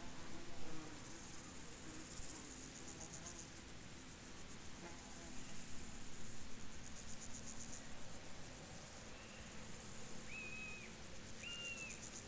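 Field insects chirping in rapid high-pitched pulsed trills, each about a second long, repeating every two seconds or so. Two short high whistled notes come near the end.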